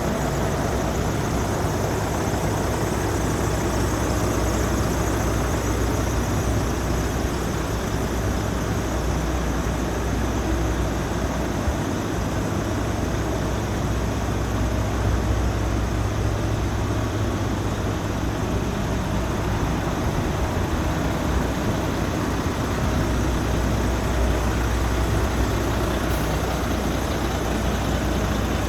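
Volvo FH 460 truck's 13-litre straight-six diesel engine idling steadily.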